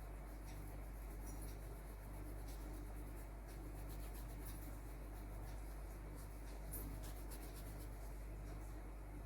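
Faint, irregular scratching strokes of a drawing tool on paper, over a steady low electrical hum.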